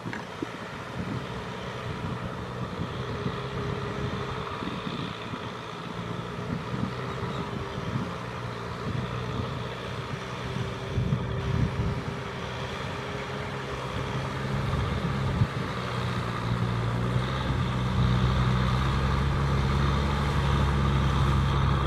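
Kubota M6040SU tractor's diesel engine running under load while pulling through mud, growing louder and heavier over the last several seconds.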